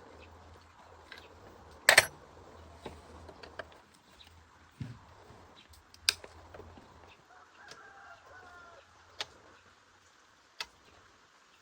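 Scattered sharp clicks and knocks of parts and hand tools being handled during repair work, the loudest about two seconds in, over a faint low hum.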